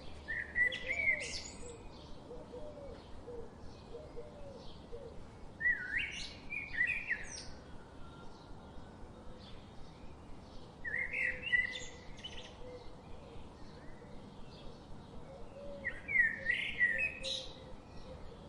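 Songbirds singing: one bird repeats a short, loud song phrase about every five seconds, four times, over steady faint chirping from other birds.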